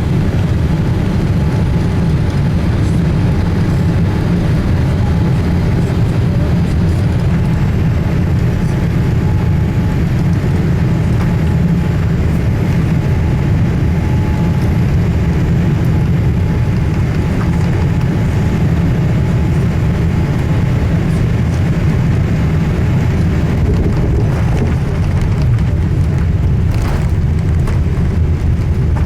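Boeing 787-8 cabin noise heard from a passenger seat: a loud, steady, deep rumble from the two GEnx-1B engines and the airflow, with a faint steady tone above it.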